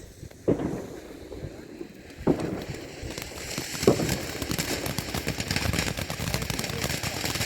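Consumer firework firing: three launch thumps about a second and a half apart, then a dense crackling that builds through the second half.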